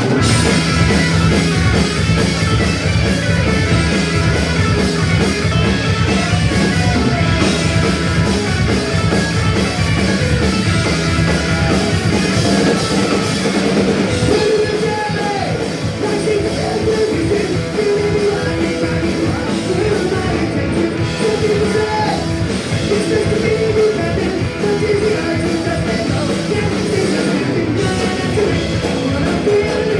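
Punk rock band playing live: electric guitars, bass and drum kit, with singing over them from about halfway through.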